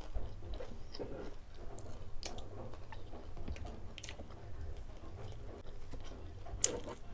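A person chewing and crunching crispy lechon kawali, deep-fried pork belly eaten by hand, with many small crackles of the crisp skin and one sharper crunch near the end.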